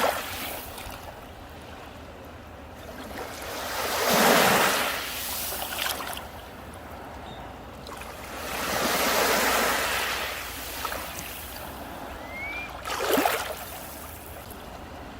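Sea waves breaking and washing up a beach, surging in about every four to five seconds with a lower hiss of water between them.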